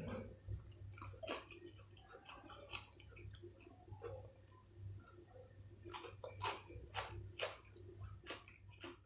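Close-miked chewing: a person eating chicken and rice, making a string of wet mouth clicks and smacks that come more thickly near the end, over a faint low hum.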